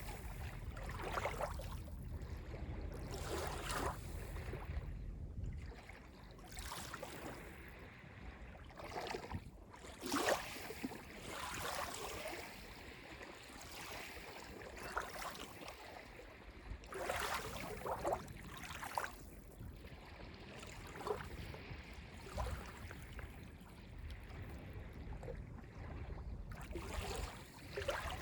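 Small freshwater waves lapping on a sandy beach of Lake Ontario, an uneven run of soft splashes every second or two, the strongest about ten seconds in.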